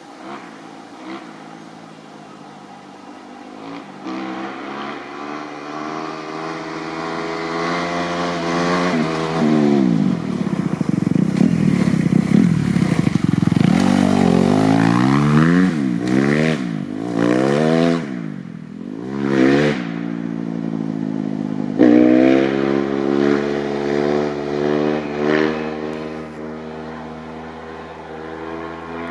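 Kawasaki KX250F single-cylinder four-stroke dirt bike with an FMF 4.1 RCT exhaust, coming closer and growing louder under throttle. It then revs hard several times, the pitch rising and falling quickly, for power wheelies. Near the end it settles to steadier running with small throttle blips and fades away.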